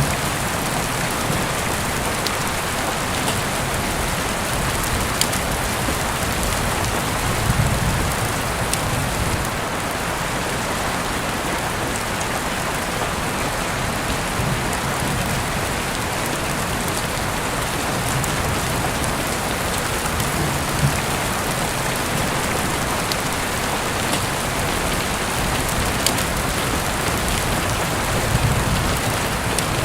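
Heavy rain falling steadily as a dense, even hiss, with a few sharper drop ticks and now and then a soft low rumble.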